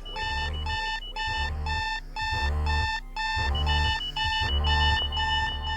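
Electronic alarm-clock beeping, about two beeps a second, laid into a music track over a deep pulsing bass, right after the words "or wake up".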